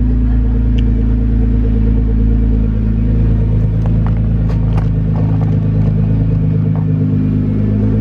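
Nissan GT-R R35's twin-turbo V6 idling steadily through a custom titanium cat-back exhaust, its low note held at a constant pitch and loudness, in an enclosed car park that amplifies the sound. A few faint clicks sound over it.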